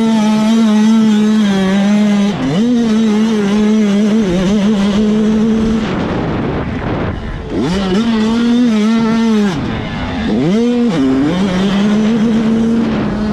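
85cc two-stroke motocross bike engine revving hard and held at high revs, with quick drops and climbs in pitch as the throttle is chopped and reopened. Twice it falls away to a brief lull before winding back up.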